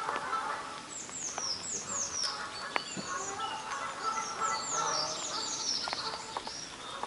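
Small woodland birds calling: two runs of high, quick downward-slurred chirps, with fainter chirping lower down and a couple of faint clicks.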